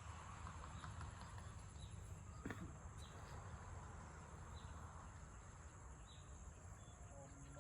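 Faint rural ambience: a steady high insect drone, with soft short chirps about once a second over a low rumble.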